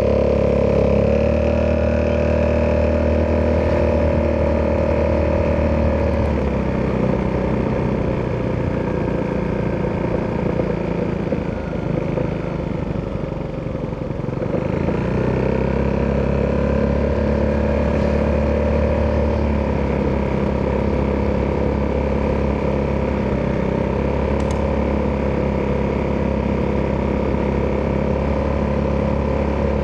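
Italjet Dragster 200 Malossi Edition's single-cylinder four-stroke engine running through an Akrapovic exhaust at a steady throttle, then easing off for several seconds before pulling up again about halfway through and settling into a steady cruise.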